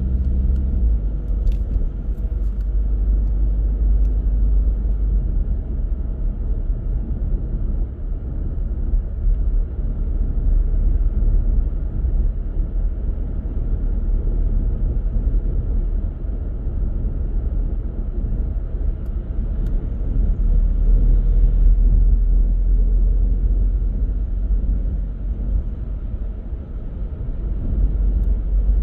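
A car on the move: steady low rumble of road and engine noise, with a few faint brief ticks.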